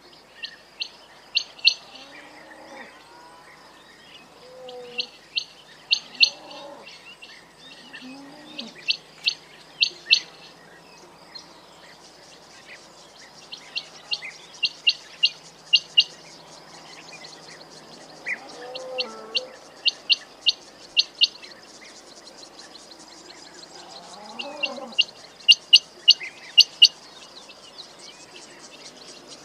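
Quail calling: bursts of several sharp, rapid high chirps, repeated every four or five seconds, with fainter lower call notes in between.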